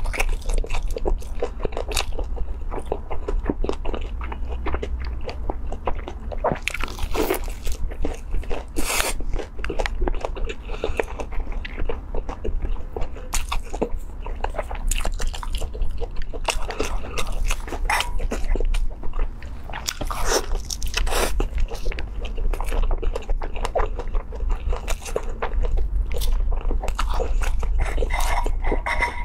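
Close-miked biting, crunching and chewing of a crisp fried chicken wing stuffed with rice, in a continuous run of crackles and wet smacks.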